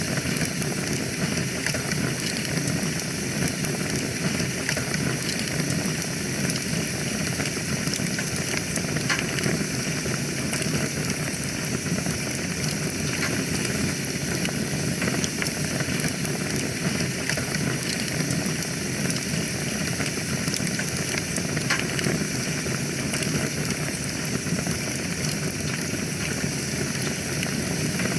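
Wood fire burning in a fireplace: a steady low rush of flames with many small crackles and pops throughout.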